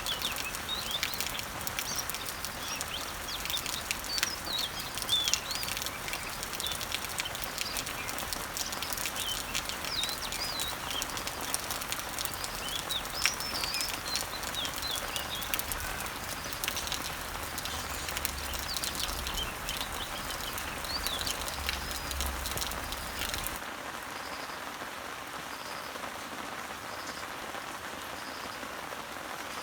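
Rain pattering on garden leaves, with many small drops ticking and birds chirping over it. About 23 seconds in, the sound changes suddenly: the birdsong and low rumble stop, leaving quieter rain and a faint high chirp that repeats about once a second.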